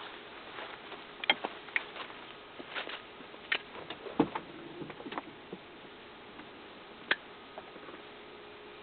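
A fire crackling, with scattered irregular sharp pops over a faint steady hiss.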